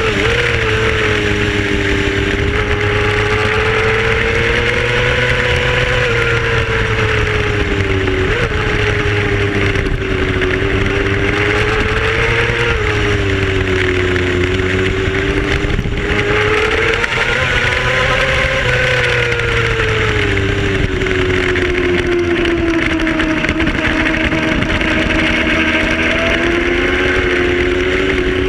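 Racing motorcycle engine running hard on track, its pitch rising and falling in slow swells every few seconds as the revs change through the laps.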